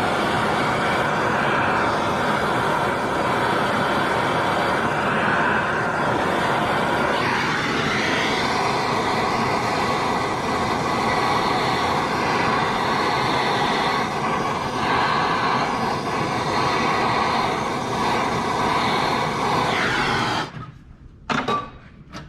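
Handheld gas torch burning with a steady hiss, heating a sway bar bushing bolt to loosen it; a steady tone joins the hiss about seven seconds in. The flame shuts off suddenly near the end, followed by a few light clicks.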